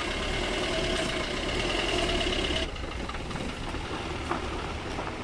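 Maruti Suzuki Ciaz DDiS diesel engine running at low speed with a light diesel clatter as the car is driven down off the wash ramp. The steady hum drops a little in level about two and a half seconds in.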